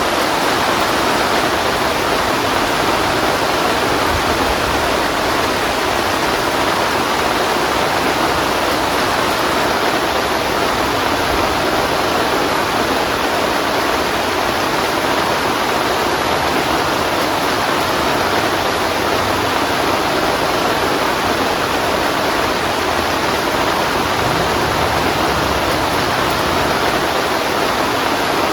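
Heavy rain pouring steadily, a dense even hiss with no breaks and no rises or lulls.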